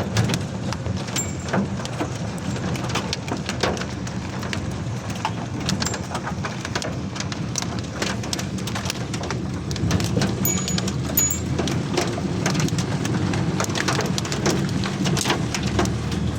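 Steady heavy rain falling, with many sharp separate drop strikes on hard surfaces.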